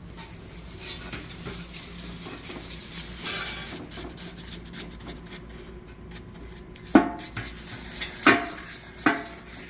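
Metal engine parts being handled on a workbench: rubbing and scraping, then three sharp ringing metallic clinks in the last three seconds.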